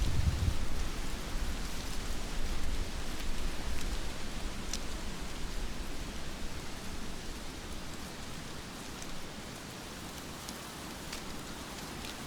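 Heavy rain falling steadily, with a few sharp drops striking close by. A low rumble in the first second fades away, and the rain eases a little toward the middle.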